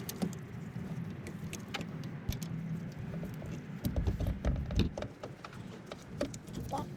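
Scattered metallic clinks and light knocks of hand tools being handled in a truck's engine bay, with a few heavier thumps about four to five seconds in.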